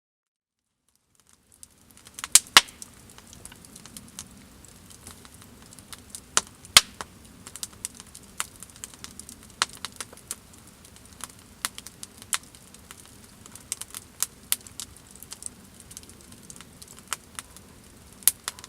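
Wood fire crackling, with irregular sharp pops and snaps over a low steady hiss, fading in about a second and a half in.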